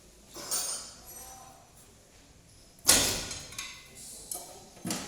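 Metal tools and engine parts clanking as they are handled and set down: a few sharp knocks with a short metallic ring, the loudest about three seconds in.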